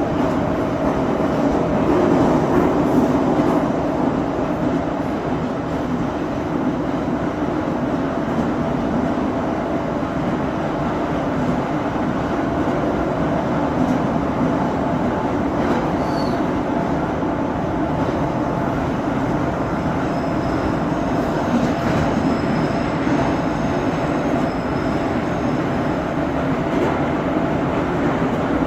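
81-717.5M/81-714.5M 'Nomernoy' metro train running at speed between stations: a steady rumble of wheels and running gear, with faint high tones in the second half.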